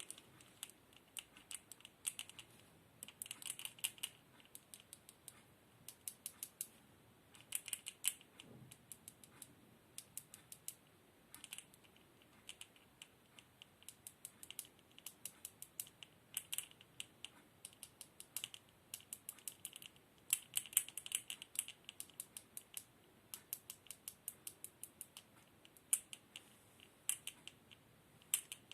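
Light, quick clicking taps in irregular runs of several strokes, like typing, close to the microphone.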